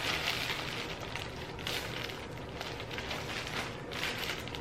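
Plastic packaging crinkling and rustling in irregular bursts as a mailer bag is handled and opened.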